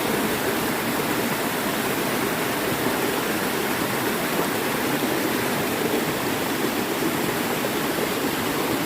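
Waterfall crashing onto rocks, a steady rushing roar of falling water.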